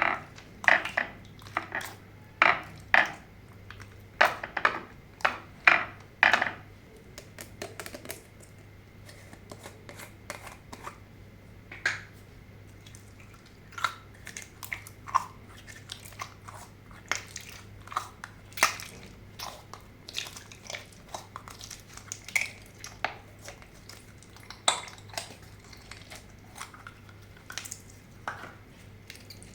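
Slime being mixed, making a run of short sticky pops and clicks. They come about two a second and loudest over the first six seconds or so, then grow sparser and quieter.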